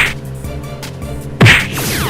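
Cartoon soundtrack music with two sharp hit sound effects, one at the start and one about a second and a half in, followed near the end by a cluster of falling whistle-like glides.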